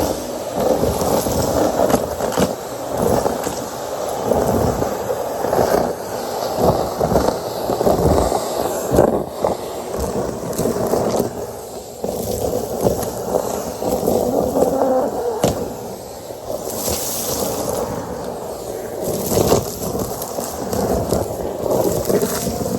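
Henry vacuum cleaner running and sucking up crunchy debris, with a continuous uneven rattle and many small clicks as bits pass through the hose.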